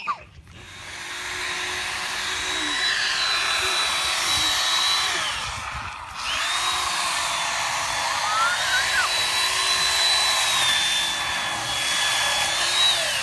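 Power tool cutting tree branches, running with a steady whine in two runs of about five seconds each. The motor's pitch drops as it slows at the end of each run.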